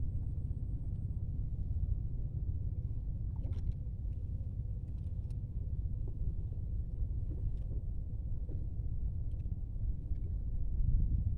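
Strong wind buffeting the microphone: a steady, low rumble that swells near the end, with a few faint ticks over it.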